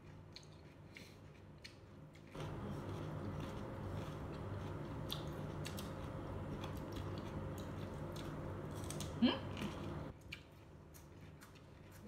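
Crunchy biting and chewing of raw vegetables such as red bell pepper, heard as a run of short sharp crunches. A steady rushing noise comes in about two seconds in and cuts off about ten seconds in, and a brief rising squeak near nine seconds is the loudest moment.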